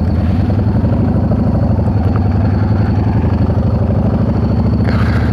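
Yamaha V-Star 650's air-cooled V-twin engine running steadily at low revs, its pitch holding even throughout.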